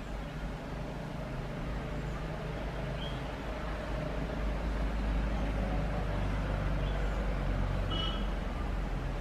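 Steady low rumble of road traffic, growing a little louder about four seconds in, with a few faint, short bird chirps over it.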